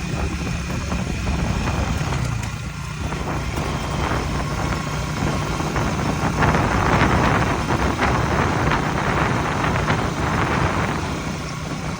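Rice combine harvester's engine running steadily. From about six and a half seconds in until near the end, a louder rushing noise with many small rattles rides over it.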